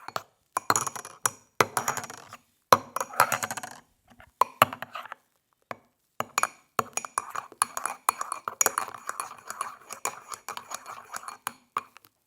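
Dishes, glasses and cutlery clinking and clattering in quick, irregular clusters, with a few short silent gaps between them.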